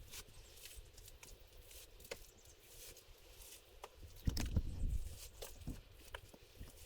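Scattered small clicks and crackles, with a cluster of dull thumps about four seconds in.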